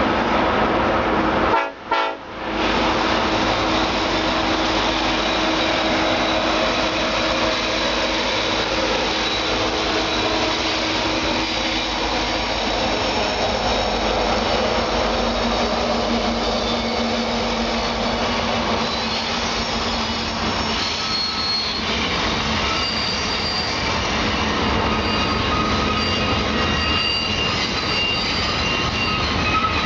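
Union Pacific mixed freight train passing on a downgrade: the locomotives and rolling cars make a steady, continuous rumble. From about two-thirds of the way through, thin high-pitched wheel squeal from the cars rises over it. The sound drops out briefly about two seconds in.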